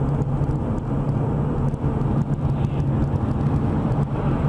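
A car driving, with steady engine hum and road noise.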